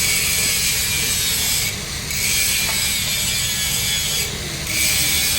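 Stick (SMAW) welding arc crackling and hissing on schedule 80 steel pipe, breaking off twice briefly.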